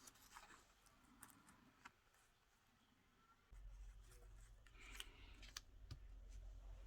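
Faint paper-craft handling noises: small clicks and soft rustles of paper being handled. A low hum comes in about halfway.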